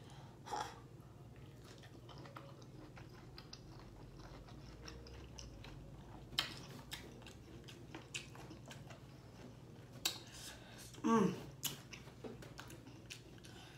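Close-miked chewing of a sauce-covered boiled shrimp: soft wet mouth clicks and smacks, with a few sharper, louder smacks. About eleven seconds in there is a brief vocal sound that falls in pitch.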